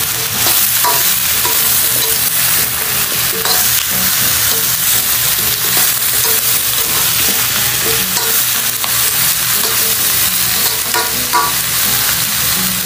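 Chunks of green papaya sizzling in hot oil in a nonstick pan, with a steady frying hiss, as a spatula stirs and turns them with scattered scrapes and knocks against the pan.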